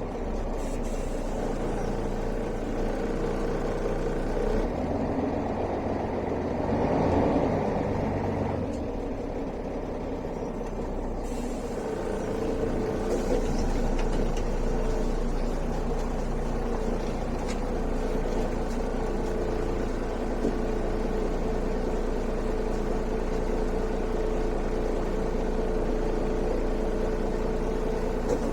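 Mercedes-Benz O405 city bus heard from on board, its diesel engine running steadily. A louder rush of noise rises and falls a few seconds in, and the hum settles into a steadier tone in the second half.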